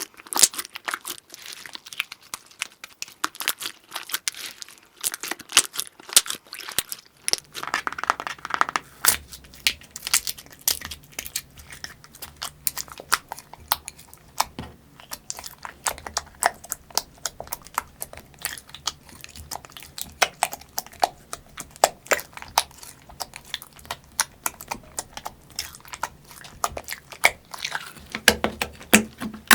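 Slime being squeezed and pressed by hand, giving a dense run of crackles and pops. From about seven seconds in, a low steady hum sits underneath.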